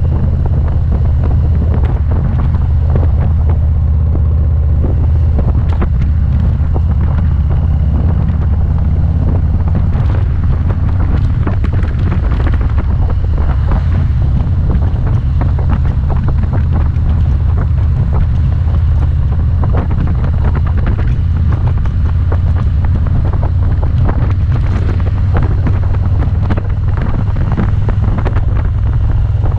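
Motorcycle running steadily at road speed, with a constant low engine rumble under heavy wind buffeting on the microphone.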